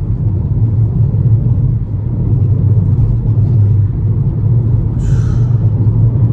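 Steady low road and engine rumble of a moving car, heard from inside the cabin, with a brief hiss about five seconds in.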